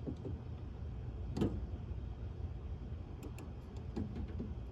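A few light clicks and taps from handling small grill parts and wiring, the sharpest about a second and a half in, over a steady low hum.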